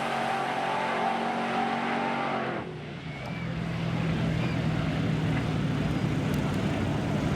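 Drag-racing truck engine running at a high, steady pitch, which stops abruptly about two and a half seconds in; a lower, steady engine rumble follows.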